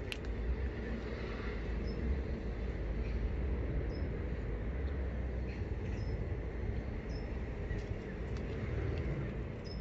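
Garden ambience with a steady low rumble and a small bird's short high chirps, repeated every second or two.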